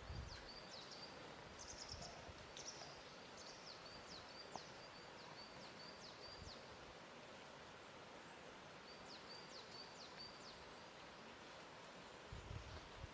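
Faint lakeshore ambience: a low steady hiss with small birds chirping in quick high series, one near the start and one again later, and a few soft low thumps at the start and near the end.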